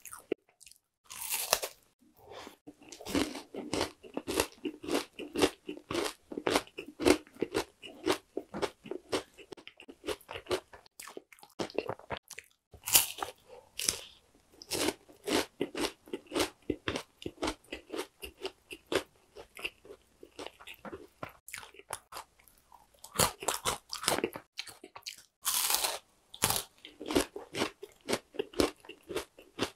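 Bites and crunchy chewing of oranda, a brittle bar of puffed grains bound in hardened syrup. A stream of crackly crunches, with louder bites about a second in, around thirteen seconds and again near twenty-four to twenty-six seconds.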